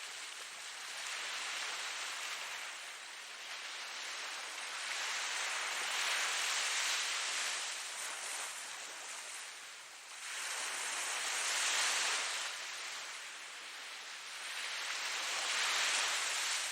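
Ocean waves washing onto a shore: a hissing surf that swells and ebbs every few seconds, with a strong swell about ten seconds in.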